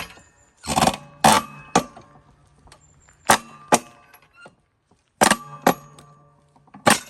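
Loud, sharp metal-on-metal strikes of a firewood-splitting tool driving into logs. There are about eight blows in short groups, each followed by a brief metallic ring.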